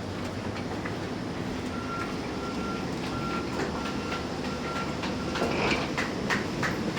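Steady low vehicle rumble with a warning beeper sounding about six short, evenly spaced high beeps, followed by a few clattering knocks near the end.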